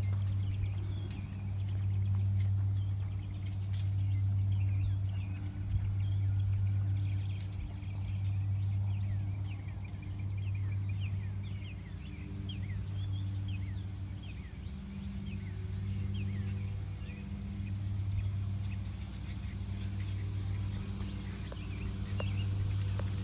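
Heavy-duty foil hanging on a string, crinkling and ticking faintly as it twists in the wind. Birds chirp throughout. Under it all is a steady low hum that swells and fades every couple of seconds.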